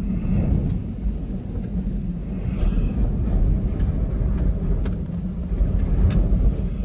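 Storm-force wind gusts buffeting, a heavy low rumble that surges and eases. Several light, sharp ticks scattered through it.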